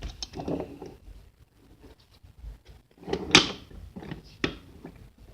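A few light knocks and clacks of small toy engines being handled and set down, the loudest about three seconds in and another a second or so later.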